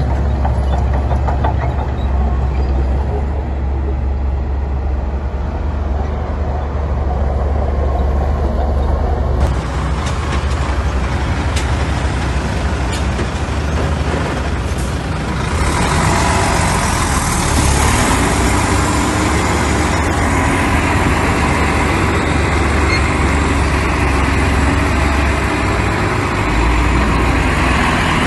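Heavy diesel earthmoving machinery running under load with a steady low engine drone; about halfway through, a harsher, noisier sound joins it and holds to the end.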